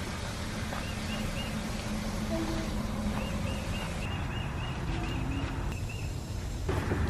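A bird repeating short, high chirping notes, a few at a time and then in a longer run, over a steady low rumble of outdoor background noise.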